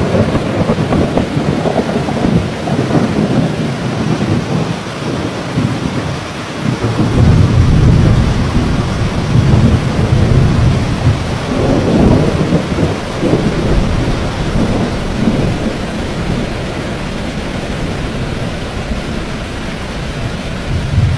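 Heavy rain falling steadily, with rolling thunder. A long low rumble builds about a third of the way in and dies away, leaving the rain alone near the end.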